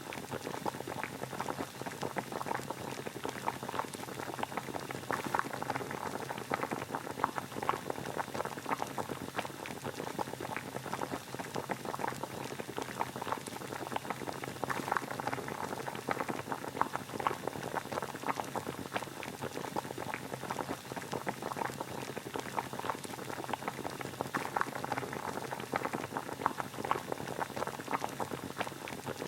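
Water boiling at a steady rolling boil, a continuous dense bubbling and popping used as white noise.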